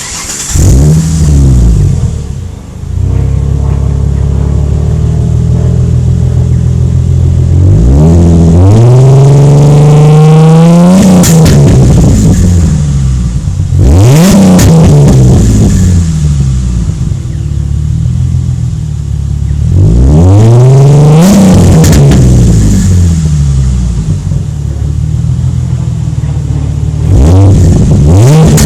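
A 2006 Ford Mustang's 4.0-litre V6 exhaust, heard close up. The engine starts at the very beginning, settles to an idle, then is revved four times, each rev climbing and falling back. The first rev is a slow climb lasting about three seconds.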